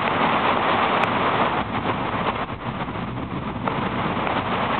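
Storm rain and wind, a steady rushing hiss that eases for a couple of seconds in the middle and then builds back.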